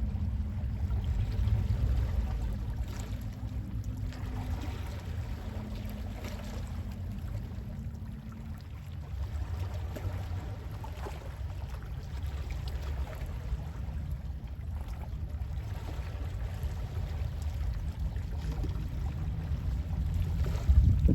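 Calm sea waves washing and lapping over a steady low rumble of sea wind, swelling louder near the end.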